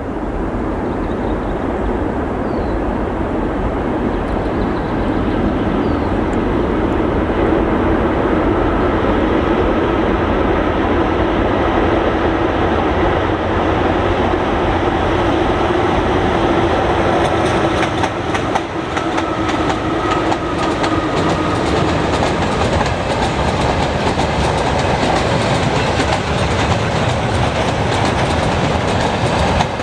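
Freight train hauled by a VL11 electric locomotive running past: a steady rumble with faint steady whines, and the wheels clacking over rail joints more densely in the second half.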